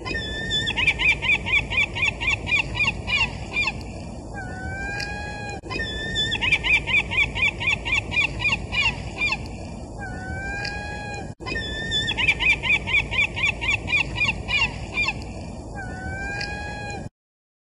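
Gull calling: a fast run of short laughing calls, then a few longer drawn-out calls, over a steady background hiss. The same stretch repeats three times and cuts off abruptly near the end.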